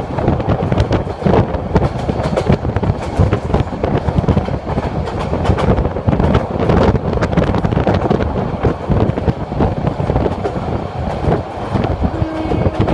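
Sonar Bangla passenger train running at speed, heard from aboard: a loud, steady rush of wheel-and-rail noise with irregular clacks of the wheels over the rail joints. A steady pitched tone comes in near the end.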